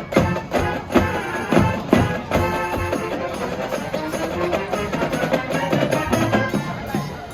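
High school marching band playing, with sharp percussion strikes through the music.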